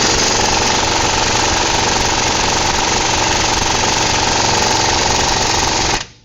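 Impact wrench hammering without pause on a stuck wheel hub mounting bolt, a rapid steady rattle that stops abruptly near the end, the bolt still not broken loose.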